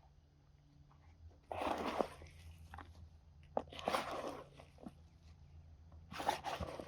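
Three short bursts of rustling and crunching as material in the worm compost bin is handled, about a second and a half in, around four seconds, and near the end.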